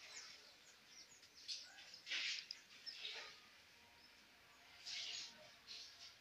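Faint outdoor ambience with a few short high bird chirps and two brief rustling sounds, about two seconds in and about five seconds in.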